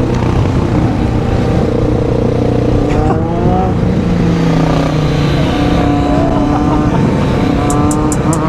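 Motorcycles running at road speed with heavy wind rush on the microphone, among them a Triumph Street Triple's three-cylinder engine; the engine note climbs briefly about three seconds in and shifts again a little later.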